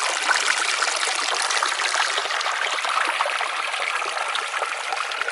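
Waterfall running, a steady rush and splash of falling water.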